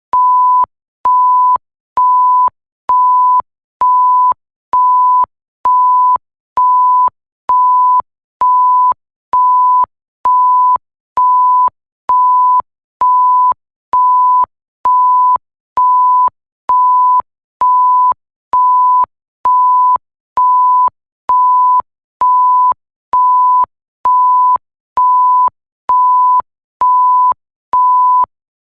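Electronic censor bleep: a single pure, steady high tone beeping on and off about once a second, each beep about half a second long, with a faint click at each start and stop.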